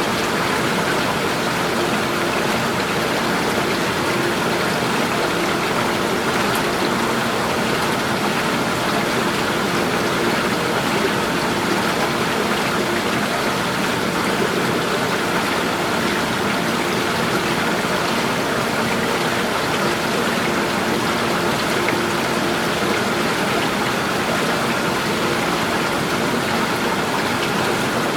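Flowing water rushing and splashing steadily, an even sound that never pauses or changes.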